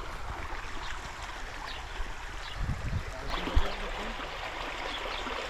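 Steady rush of flowing river water, with a few low knocks around the middle.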